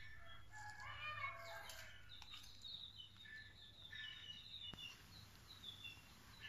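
Faint bird chirps and short calls, scattered over quiet background noise.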